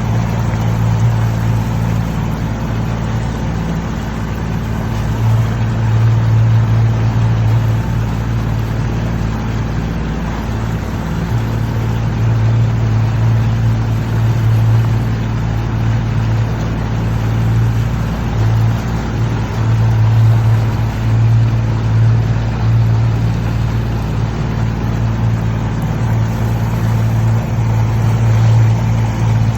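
A steady low engine drone with an even hum that holds its pitch throughout, swelling and easing slightly in loudness.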